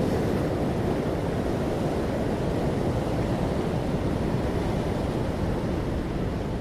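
Ocean waves washing on a shore, a steady rushing surf sound heaviest in the low range and slowly easing off in level, with no distinct single wave crash.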